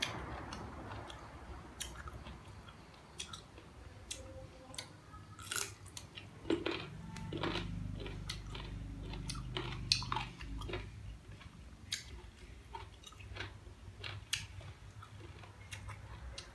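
Green (unripe) mango slices being bitten and chewed, giving irregular crisp crunches and mouth clicks.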